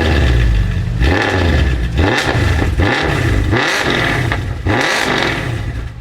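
Mercedes-Benz C63 AMG V8 with an iPE aftermarket exhaust being revved hard over and over, about five blips in a row, each rising and falling in pitch. The revving stops right at the end.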